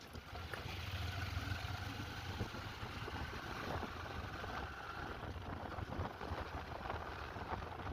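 Motorcycle running along the road with steady wind rush on the microphone.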